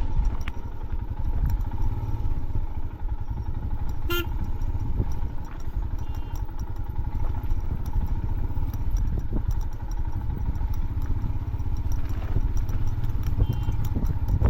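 Motorcycle engine running at low speed while the bike rides down a rough dirt trail, with rattling from the bike over the uneven ground. There is one short sharp sound about four seconds in.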